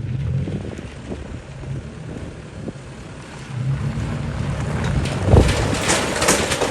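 Tractor engines running as tractors drive past, with wind buffeting the microphone; it grows louder over the last couple of seconds.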